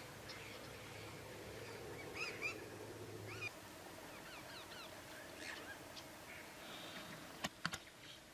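Faint outdoor bush ambience with scattered short bird chirps and calls. Two sharp clicks come near the end.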